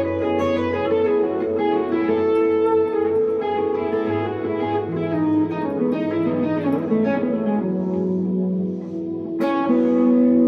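1963 Fender Telecaster electric guitar playing a slow melodic line of single picked notes through a tube amp with delay and reverb, over a held low note. A strong new note is struck near the end.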